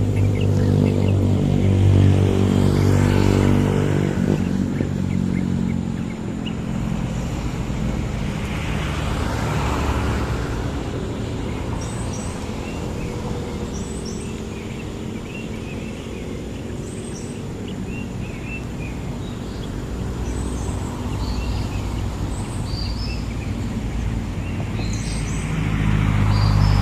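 A motor vehicle engine running steadily, louder at the start and again near the end. From about twelve seconds in, small birds give short high chirps over it.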